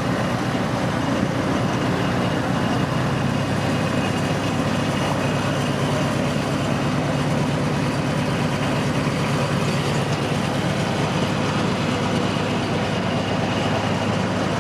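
Narrow-gauge tourist train running at a steady pace, heard from aboard: a constant low engine hum with rail rumble under an even hiss.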